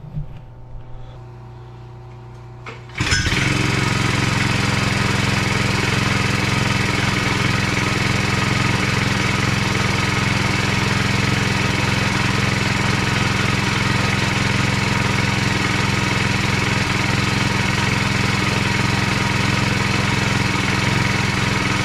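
Wacker Neuson BS60-4S rammer's small WM100 engine idling quietly, then opening up at about three seconds to run loud and steady at full throttle until it cuts off at the end, on a test run after a leak repair and new pull cord.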